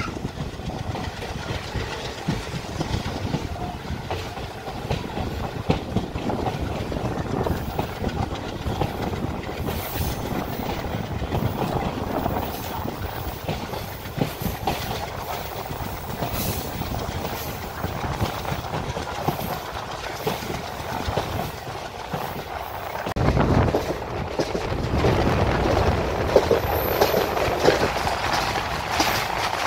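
Passenger train coaches running along the track, heard from an open coach doorway: a steady rumble with wheels clicking over rail joints. It grows louder over the last few seconds.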